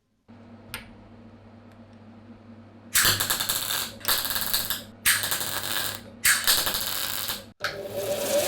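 Workshop tool work: four loud rasping strokes, each about a second long and about a second apart, after a single click, with a small power tool starting to whir near the end.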